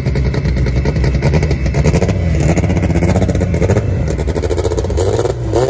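Honda Civic drag car's engine held at high revs with a rapid, even crackle, the revs wavering up and down. Near the end the pitch sweeps sharply upward.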